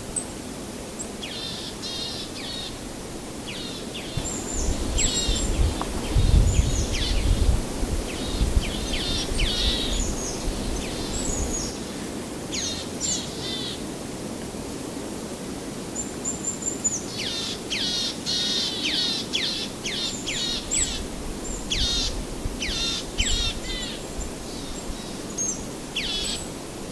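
Small birds chirping and calling repeatedly, many short quick notes, over a steady hiss of outdoor background noise, with a low rumble swelling and fading about five to eight seconds in.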